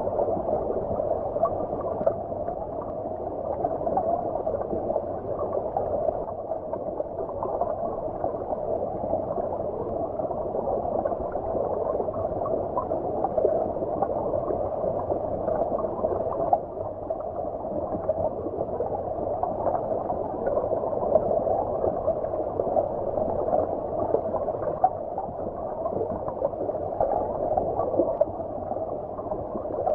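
Flowing stream water heard underwater: a steady, muffled gurgling with nothing high-pitched in it.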